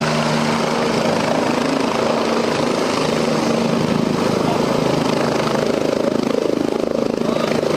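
Helicopter rotor and engine running loud and steady, with low steady tones that drop out about three and a half seconds in.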